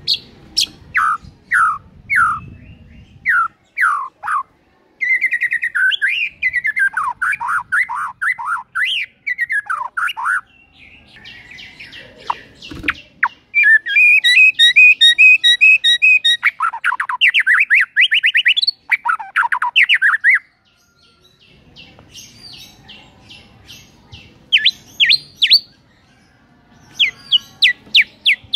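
White-rumped shama singing a long, varied song, reeling off its repertoire of learned phrases. It runs through sharp downward-slurred whistles and warbled phrases, with a loud fast trill about halfway through and more quick falling notes near the end.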